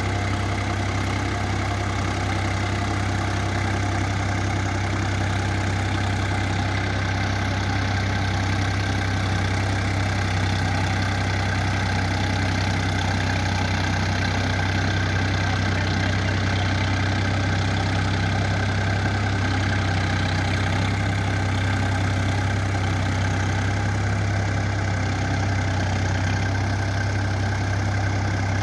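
Preet 955 tractor's diesel engine running steadily at a constant speed, with a strong low hum.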